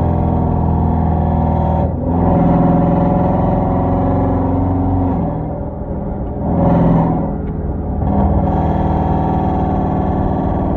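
Exhaust of a Hyundai Genesis 5.0 sedan's V8, straight-piped with Flowmaster Super 10 mufflers and no catalytic converters, while driving. It pulls steadily with a brief dip about two seconds in, eases off around five seconds, swells in a short rev near seven seconds, then settles to steady running.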